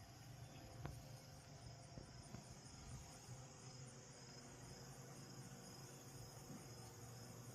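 Faint, steady insect chirping in even pulses over a low hum, with a soft click about a second in.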